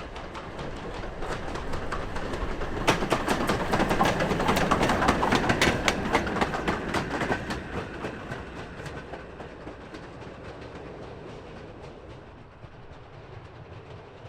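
A train passing close by, its wheels clicking over the rail joints. It builds to its loudest a few seconds in, then fades away.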